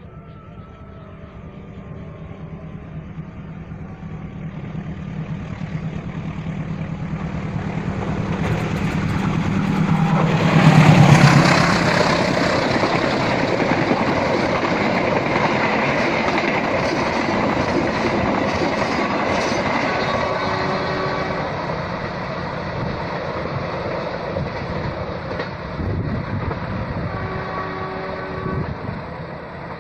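A passenger train passing: the locomotive's engine drone grows louder as it approaches, is loudest about eleven seconds in as it goes by, then the carriages rumble and clatter over the rails, slowly fading.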